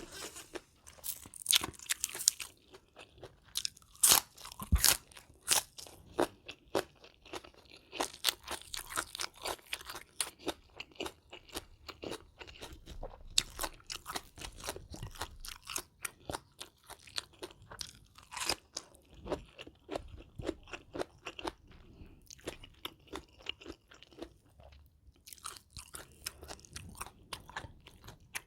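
A person chewing and crunching food close to the microphone: a dense run of short, crisp crunches at an irregular pace, loudest about four seconds in.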